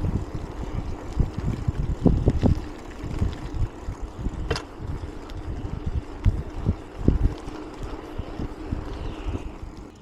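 Mountain bike riding over rough ground, with irregular low thumps and rattles and wind buffeting the microphone. There is one sharp click about four and a half seconds in, and the rattling dies down near the end.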